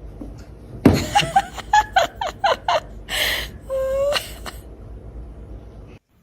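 A person laughing in a quick run of short bursts, about four a second and falling in pitch. A sharp breath and a brief held voiced sound follow.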